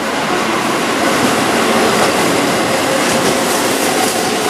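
Keihan 7200-series electric commuter train running past at close range on a curving track: a steady rush of wheel and rail noise with faint steady tones underneath.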